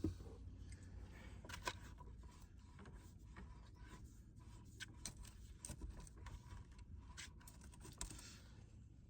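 Faint, scattered clicks and scrapes of things being handled by hand, with a few sharper knocks, the loudest about two seconds in.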